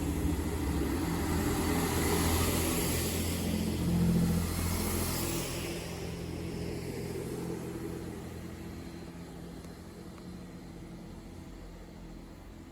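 Diesel passenger train's engine running and then fading steadily, as the train draws away.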